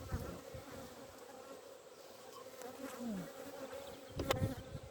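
Honeybees buzzing around an open hive, a faint steady hum. One sharp knock sounds about four seconds in.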